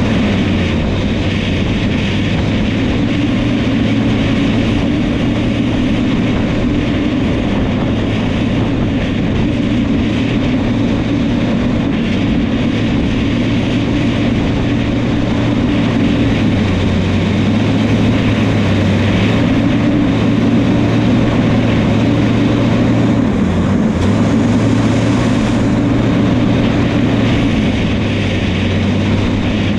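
Diesel engine of a New Holland crawler dozer running steadily at working speed, a constant low drone with a higher hum over it.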